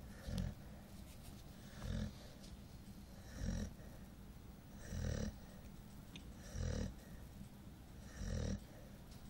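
Nine-month-old golden retriever snoring in her sleep: six short snores at an even pace, about one every one and a half seconds.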